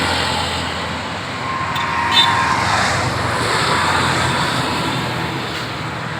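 Steady road traffic noise from vehicles on a highway, with a faint pitched tone, like a distant horn, about two seconds in.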